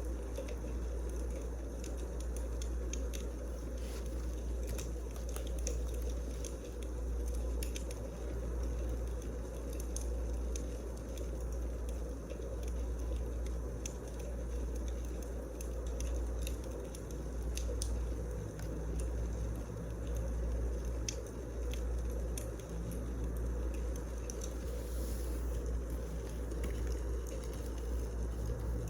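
Wood fire burning, with many small crackles over a steady low rumble.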